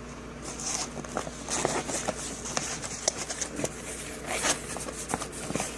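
Maxpedition Jumbo Versapack being handled and stuffed: irregular rustling, scraping and clicking of nylon fabric, zipper and buckles as an item goes in and the pack is closed up.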